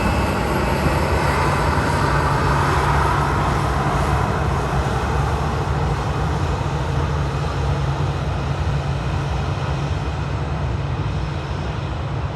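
Jeju Air Boeing 737-800's CFM56 jet engines under power on departure: a steady, loud jet noise, strongest about two to three seconds in, then slowly easing.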